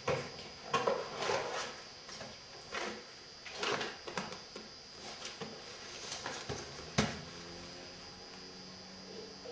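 Scattered handling knocks and rustles, with one sharp click about seven seconds in.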